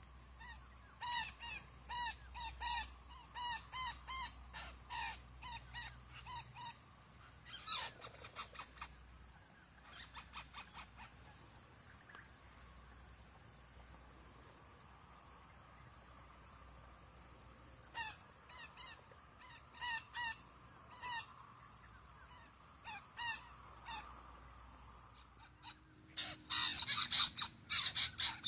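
Long-tailed parakeets giving short, harsh calls in quick repeated series. The calls fall quiet for a while midway, then come back and grow louder and denser near the end.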